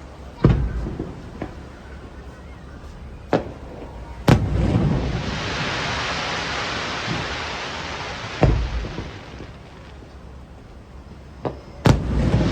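Aerial fireworks bursting: a series of loud sharp bangs, each followed by a low rumbling echo, with the strongest about half a second, four, eight and a half and twelve seconds in. After the bang at about four seconds, a long crackling hiss runs for several seconds.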